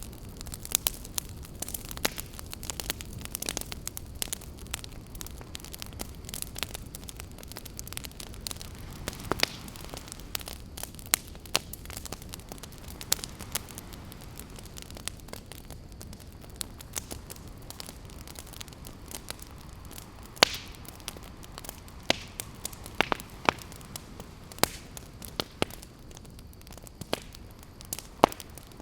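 Wood fire crackling, with many irregular sharp pops and snaps (the loudest about twenty seconds in), over a steady low rushing background.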